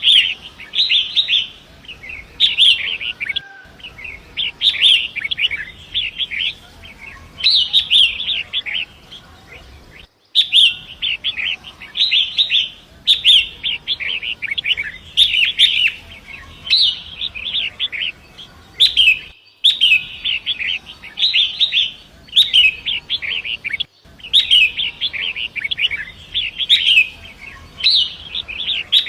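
Long-tailed shrike singing: a run of scratchy, chattering song phrases, each about a second long, repeated every second or two with only short breaks.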